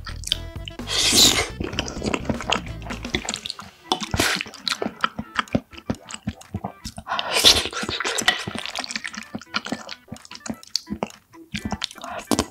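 Close-miked wet chewing and mouth sounds of eating penne pasta in tomato sauce, with many sticky smacking clicks. There are two louder wet mouthfuls, about a second in and again about seven seconds in.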